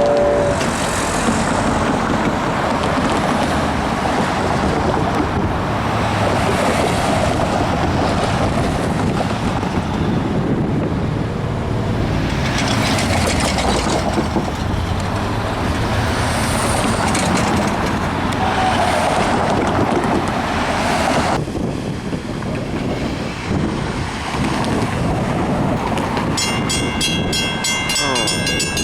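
A Long Island Rail Road train passing over a grade crossing, with a steady rush of wheel and rail noise that swells and fades every few seconds. The noise drops off suddenly about three-quarters of the way through. Near the end a crossing bell starts ringing.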